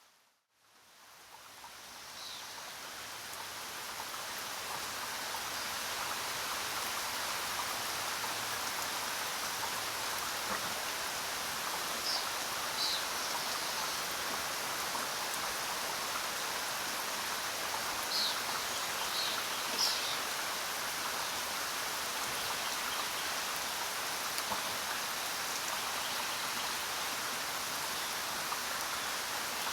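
Steady rain falling in a jungle. It dips almost to silence just after the start, builds back up over several seconds and then holds even. A few short, high bird chirps come through about twelve seconds in and again around eighteen to twenty seconds.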